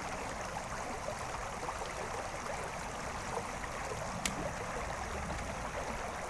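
Creek water flowing in a steady rush, with a single sharp click about four seconds in.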